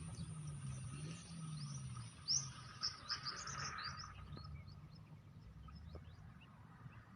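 A bird chirping: a quick run of short, high chirps a couple of seconds in, then scattered single chirps. Underneath is a faint steady high-pitched insect drone and a low hum.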